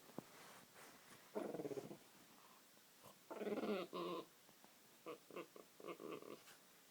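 French bulldog making low, warbling, pigeon-like cooing grumbles as she begs for food she thinks is on the table. There is a short bout about a second and a half in, a louder, longer one around three seconds in, then a string of short grunts near the end.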